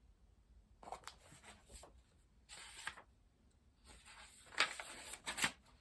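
Paper rustling and crinkling in three short spells as the pages of a picture book are handled and turned.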